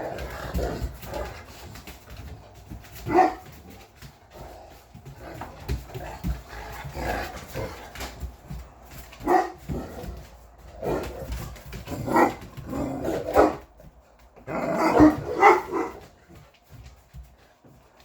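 English Mastiffs barking and vocalising back at their owner: short calls a few seconds apart, with a quicker run of several near the end.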